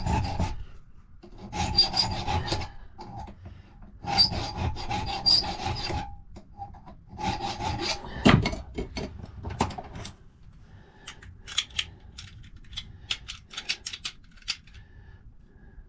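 Hand file rasping on a key bit in several short runs of strokes, taking a little more off the cut for the first lever of a 7-lever safe lock. A sharp knock comes just past the middle, and the second half holds a run of light ticks and taps.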